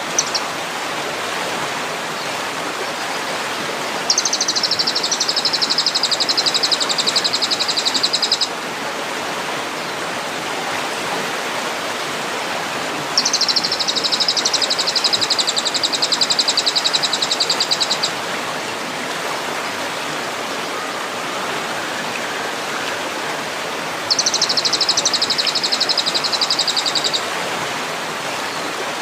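A songbird's rapid, high, buzzing trill in three bursts of a few seconds each, over a steady rushing of running water.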